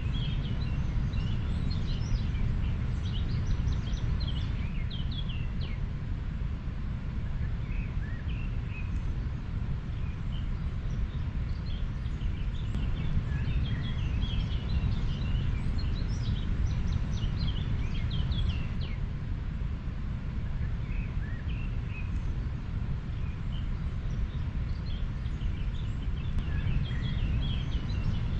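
Steady low rushing of a flowing river, with small birds chirping now and then above it.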